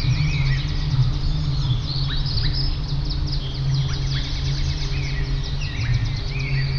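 A dense chorus of many songbirds chirping and calling at once, rapid overlapping short chirps and quick falling notes, over a steady low rumble.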